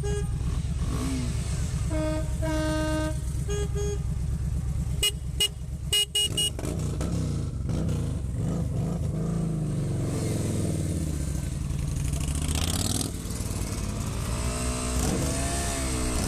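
Motorcycle engine running, with a vehicle horn sounding twice a couple of seconds in, a quick cluster of sharp clicks about five to six seconds in, and then engine revs rising and falling.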